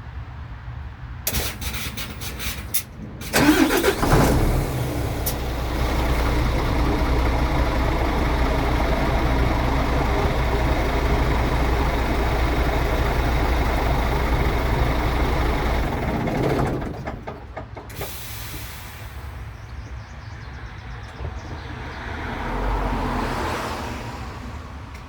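Scania R450 truck's diesel engine starting about three and a half seconds in after a few clicks, idling steadily for about twelve seconds, then shutting off. Quieter mechanical sounds and a short hiss follow.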